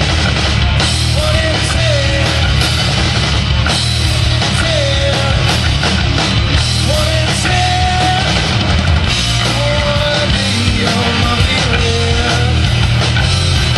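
A rock band playing loud, distorted, guitar-driven music in an instrumental stretch, with a short melodic figure that slides in pitch and repeats every second or two over steady drums and bass.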